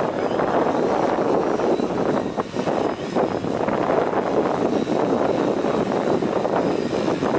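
Large heavy-lift hexacopter with 29-inch propellers and an onboard generator flying, a loud, steady droning whir of rotors and engine that wavers with the wind.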